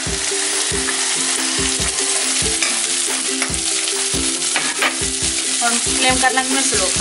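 Chopped onion and garlic-ginger paste sizzling in hot oil in a stainless steel wok, stirred with a spatula in regular strokes about twice a second.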